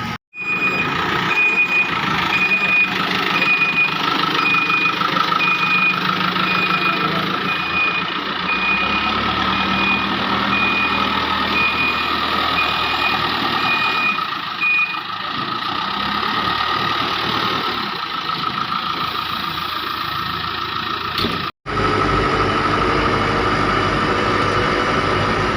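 Diesel machinery running at a worksite, with a reversing alarm beeping about twice a second for the first fifteen seconds. The sound cuts out briefly about 21 seconds in, and then the engine continues.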